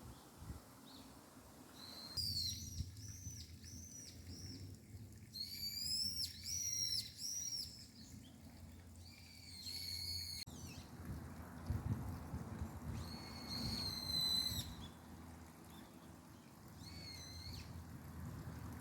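A songbird singing in short phrases of quick, high, repeated arching notes. There are about five phrases a few seconds apart, over a faint low rumble.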